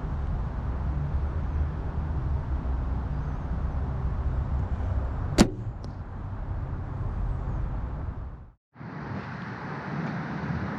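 A single sharp snap of a PSE compound bow being shot about halfway through, over a steady low rumble; a faint tick follows half a second later.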